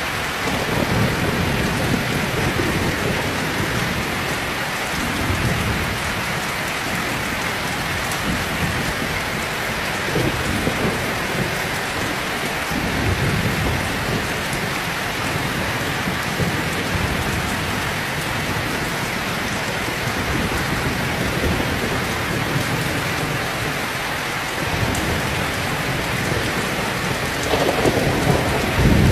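Heavy rain falling steadily, with repeated low rumbles of thunder, the strongest near the end.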